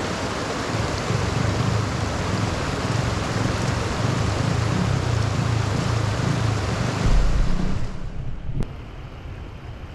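Heavy rushing water, as of floodwater pouring into a storm drain, with a strong low rumble. The sound drops off abruptly about eight seconds in, followed by a single click.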